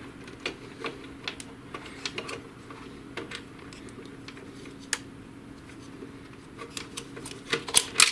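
Scattered light clicks and taps of plastic printer parts and ink tubes being handled during disassembly, busier and louder near the end, over a faint steady hum.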